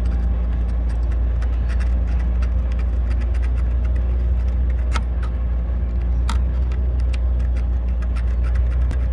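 A vehicle engine idling steadily, with light metallic clicks and taps of hand tools on metal over it.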